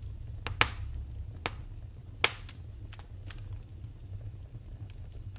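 Wood fire in a fireplace crackling, with two sharp pops about half a second and two seconds in and a few fainter snaps, over a low steady rumble.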